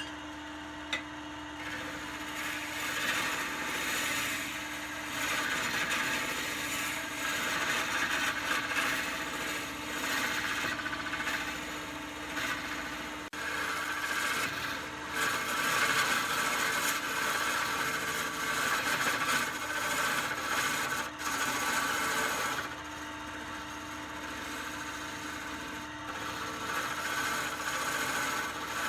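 Wood lathe running with a steady motor hum while the spinning wood is worked, a rough scraping that swells and eases in long bouts.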